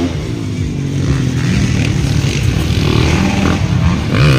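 Motocross dirt bike engines running and revving, their pitch rising and falling as the bikes race around the track.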